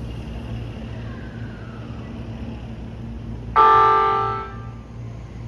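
Tobu 60000-series electric train sounding its horn once, a short blast about three and a half seconds in that fades over about a second. This is a courtesy horn given at the station. A steady low hum runs beneath it.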